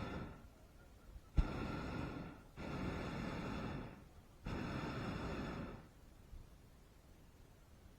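Hot air balloon propane burner fired in short bursts: one blast ending just after the start, then three more of about a second to a second and a half each, the first of these opening with a sharp click. After about six seconds it falls quiet.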